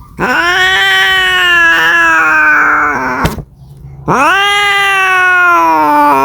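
Cat caterwauling: two long, drawn-out yowls, each rising quickly in pitch and then slowly falling, with a short pause between them. This is the yowl of a cat calling for a mate.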